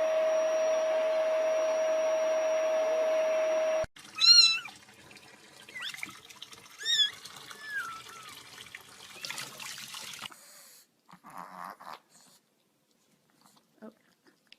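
A steady whirring noise with one held tone runs for about four seconds and cuts off abruptly. A cat then meows, loudly at first, with a second meow about three seconds later and a few smaller sounds after that. It ends in near silence.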